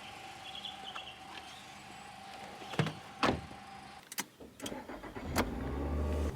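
Two sharp thuds of a car door, then a few clicks and a car engine starting into a low, steady rumble.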